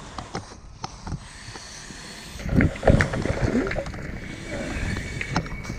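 Firefighter breathing through an SCBA face mask, with gear knocking and rustling that grows louder about two and a half seconds in.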